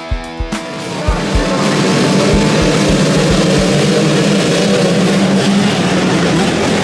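Rock music with bass-drum beats that stops about a second and a half in, giving way to motocross motorcycle engines running loud and steady.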